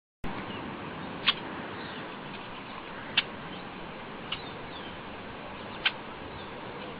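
A small bird chirping: four short, sharp, high chirps spaced a second or two apart, the third one fainter, over a steady background hiss.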